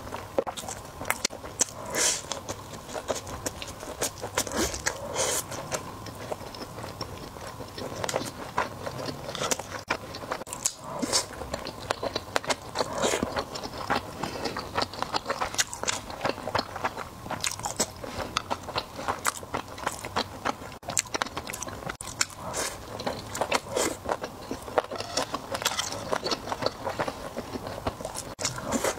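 A person chewing and biting sushi, with many short, irregular mouth clicks and smacks throughout.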